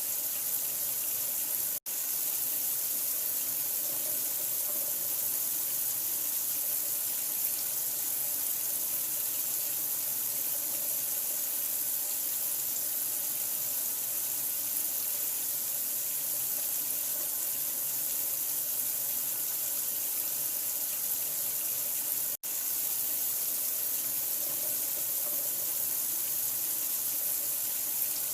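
Steady running water, an even rushing hiss like a tap running into a sink, played as a sleep sound for a newborn. It cuts out for an instant twice, once about two seconds in and again about 22 seconds in.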